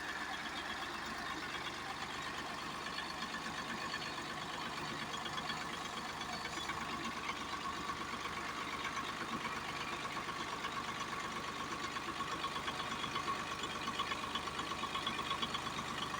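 Tractor engine running steadily while driving, with a fast, even chatter and a thin steady whine through it.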